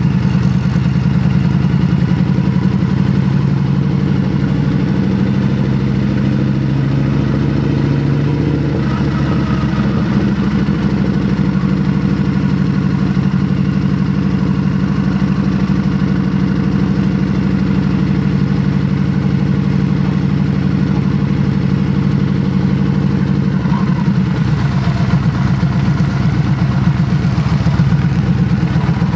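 Yamaha XVS1300A Midnight Star's V-twin engine running steadily as the motorcycle rides along, heard from the bike itself.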